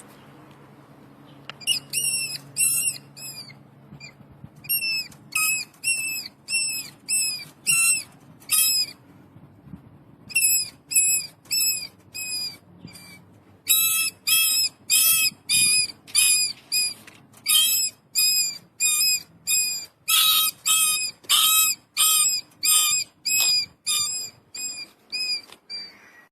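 MTR train's horn sounding a special bird-like effect: a long series of short, identical chirps, each rising and falling in pitch, about two a second in runs broken by brief pauses. A faint low hum sits underneath at first.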